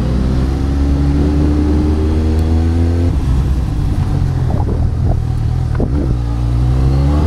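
Suzuki GSX-S 750's inline-four engine pulling away in town. Its pitch rises, drops about three seconds in, then climbs again near the end as the bike accelerates.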